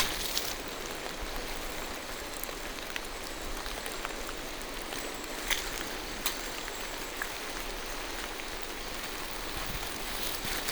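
Steady rain falling through forest trees, an even hiss with scattered sharper taps of drops. One sharp tap at the very start is the loudest moment, and a few smaller ones come past the middle.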